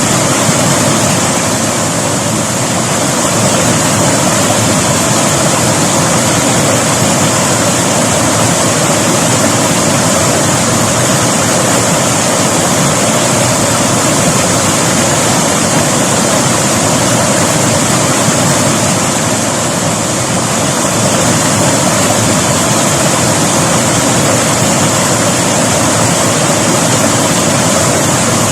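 River water flowing, a steady, even rushing noise that dips slightly a couple of times.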